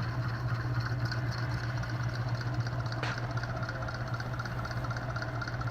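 Hunter C-18 ceiling fan running on updraft, a steady motor hum with a faint, evenly repeating tick, which the owner puts down to one blade slightly out of track. There is a single short click about three seconds in.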